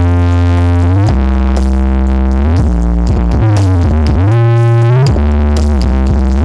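Very loud electronic dance music played through a large Blizzard Audio horeg sound system: deep sustained synth bass notes that change every second or so, with synth lines sliding down and back up in pitch midway.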